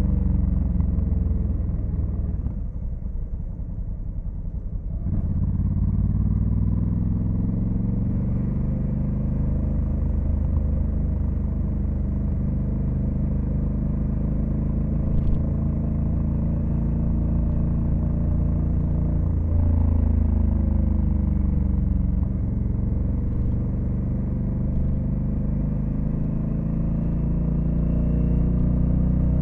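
Honda Africa Twin CRF1100L's parallel-twin engine under way on the road. The throttle closes briefly a few seconds in, then the engine pulls up through the revs, with a gear change about two-thirds of the way through and rising revs near the end.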